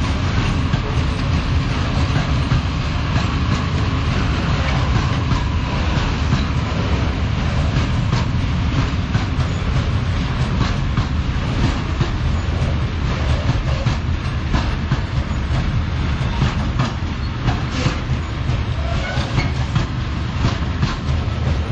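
Freight train wagons rolling past close by: a steady heavy rumble with continuous clatter of wheels over rail joints.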